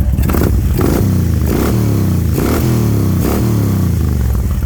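Harley-Davidson Screaming Eagle 110 cubic inch V-twin on true dual Vance & Hines pipes, revved in about five quick throttle blips, the pitch falling back toward idle after each.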